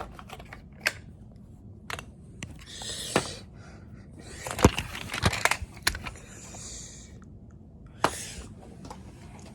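Scattered sharp clicks and taps with a few short bouts of rustling and scraping, like small plastic objects being handled and moved; the loudest click comes about eight seconds in.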